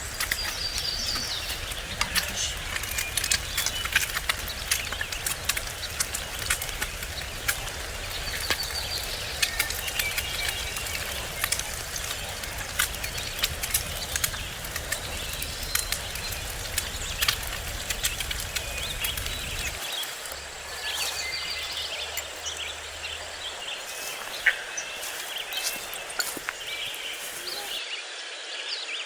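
Outdoor ambience with birds chirping now and then over a steady background hiss, with many short sharp clicks scattered through it. A low rumble, like wind on the microphone, runs under the first two-thirds and cuts off suddenly.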